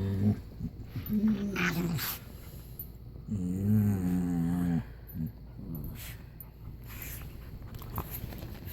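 Dogs play-growling and grumbling, in three drawn-out pitched vocal bursts, the longest coming about three and a half seconds in. Fainter scuffling and clicks follow.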